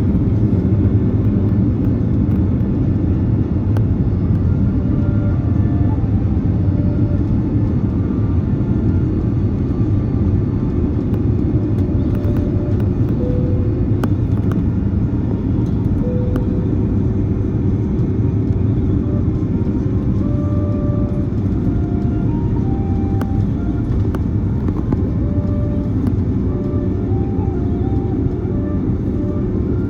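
Steady low rumble of an Airbus A330-300's engines and airflow heard inside the passenger cabin, with a constant hum running through it.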